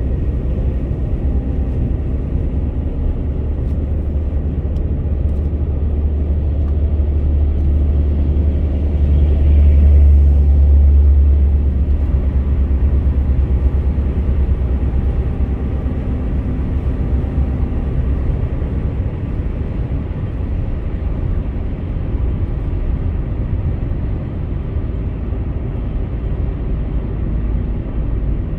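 Car driving on a highway: a steady low rumble of road and engine noise, which swells louder for a few seconds about ten seconds in.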